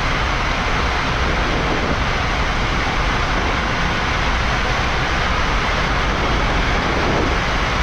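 Steady ambient noise on the flight deck of a Boeing 787-9 on the ground with its engines running: an even rushing hiss over a low rumble.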